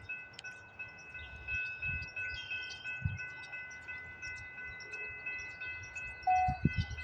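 Railroad crossing warning bell ringing steadily with rapid, even strokes as the crossing gates go down. A few low bumps come near the end.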